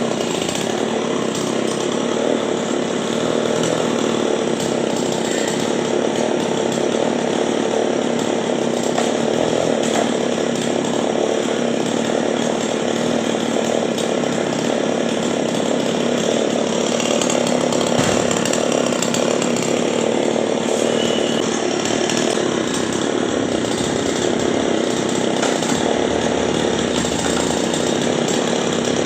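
Chainsaw running steadily and loudly without a break.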